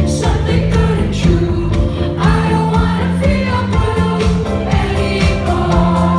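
Live pop concert: a female singer and her band performing, with many voices singing over a steady drum beat and heavy bass.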